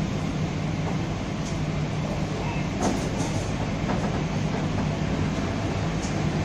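Kaligung passenger train running, heard from inside the coach: a steady rumble with a low hum underneath, and a few short clicks about three seconds in.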